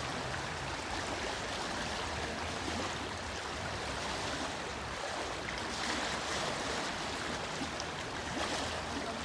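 Small river running high in spring flood, its water rushing steadily.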